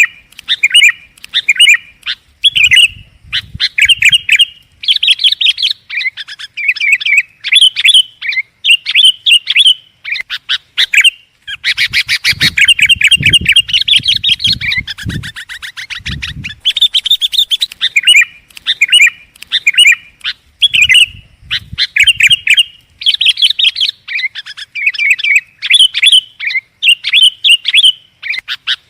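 Sooty-headed bulbul (kutilang) singing loudly and continuously, short bubbly chirping phrases repeated every second or so with brief pauses and a busier run of calls in the middle; a lure call used to attract wild bulbuls.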